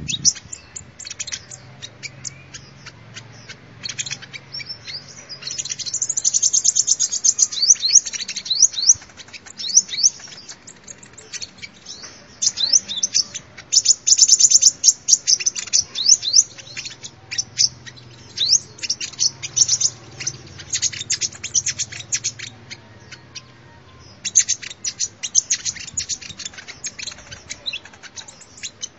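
Sunbird song: rapid, high-pitched chirps and fast trills in repeated bursts separated by short pauses.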